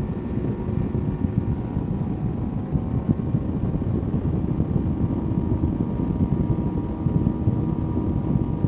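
A vehicle engine running steadily: a low, fluttering rumble with faint steady whine tones above it.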